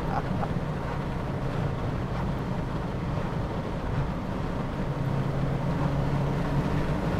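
MG Maestro Turbo's turbocharged four-cylinder engine running under way, heard from inside the cabin as a steady drone mixed with road noise. The engine note grows stronger from about five seconds in.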